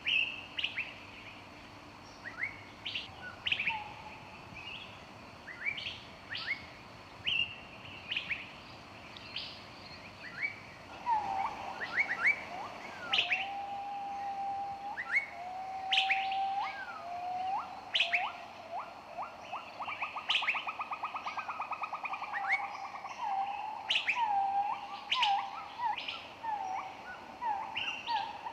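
Several songbirds singing together: many short, sharp chirps and downslurred notes, joined from about eleven seconds in by lower held whistles and a fast trill.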